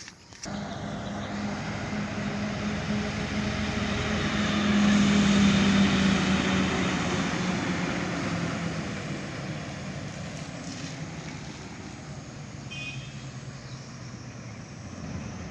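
A truck drives past. Its engine and road noise swell to a peak about five seconds in, the engine note drops slightly, and the sound fades away slowly.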